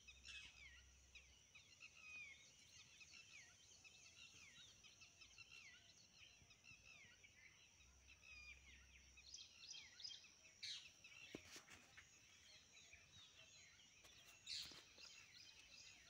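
Faint outdoor birdsong: many small birds chirping in quick short notes, over a steady thin high tone. A few soft knocks come about two-thirds of the way in and near the end.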